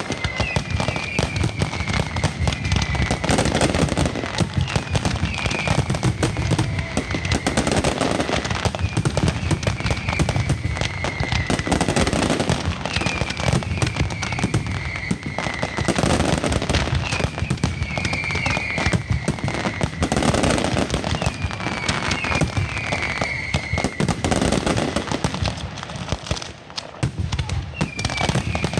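Firework display: a dense, continuous barrage of rapid bangs and crackling, with a falling whistle about every two seconds. The barrage eases briefly near the end.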